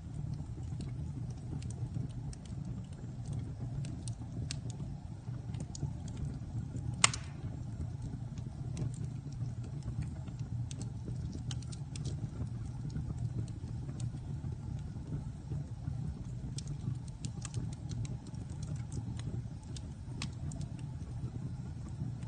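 Wood fire burning in a fireplace: a steady low rumble of flame with scattered crackles and small pops, and one loud pop about seven seconds in.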